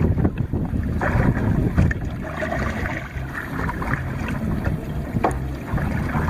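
Wind rumbling on the microphone over water splashing around a kayak, with scattered short splashes.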